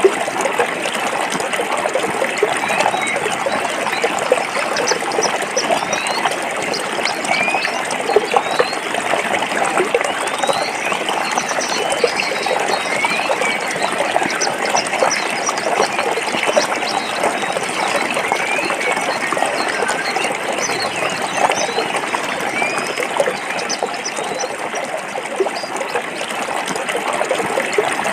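Stream water flowing and trickling over rocks: a steady rush with small splashes and gurgles throughout.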